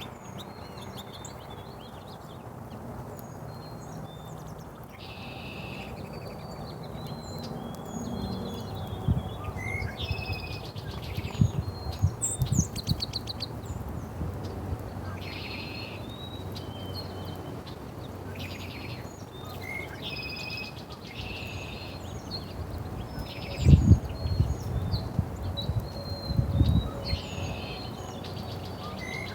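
Small birds chirping and calling repeatedly in short notes over a steady background hiss. Scattered dull low thumps come in twice, the loudest a little past twenty seconds in.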